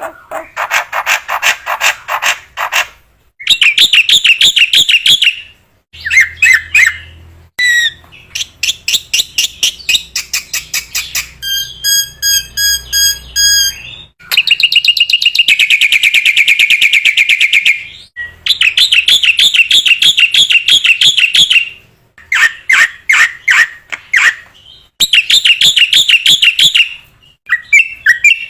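Black-winged myna (jalak putih) in full song: loud bursts of rapid, harsh chattering notes a few seconds long with short pauses between them, and a run of clear pulsed whistle notes about halfway through.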